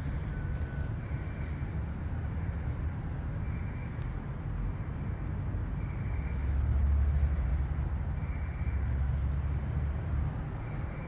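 A low, steady engine rumble that gets louder for a few seconds from about six seconds in.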